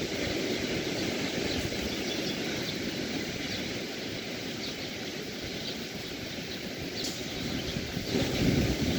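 Beach ambience: a steady wash of sea and wind with short, faint bird chirps scattered through it. The wash swells louder about a second before the end.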